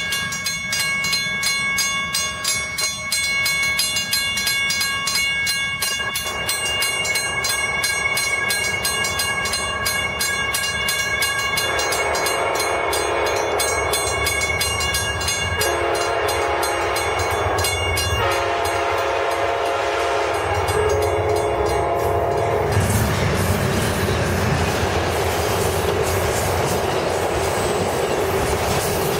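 Amtrak passenger train approaching and sounding its horn in three blasts, long, shorter, long, over a steady bell ringing. Then it passes close by with a loud rush of rumbling wheel and rail noise.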